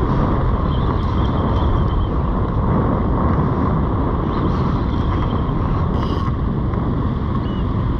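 Steady wind rumbling on the microphone over the wash of surf on a beach.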